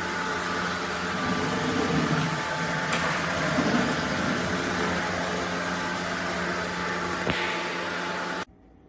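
SunSare X11 cordless stick vacuum's motor running steadily with a whirring hum, with a couple of brief clicks, cutting off abruptly about eight and a half seconds in.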